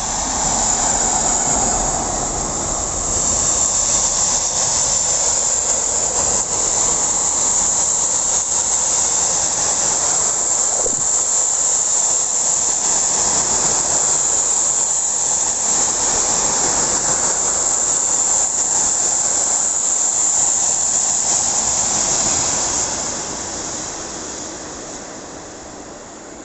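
Freight train of fuel tank wagons passing close by: a loud, steady rush of wheels on the rails with a high hiss, fading away over the last few seconds.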